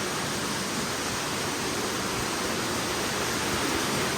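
Steady rushing of a cave waterfall, an even hiss of falling water with no break.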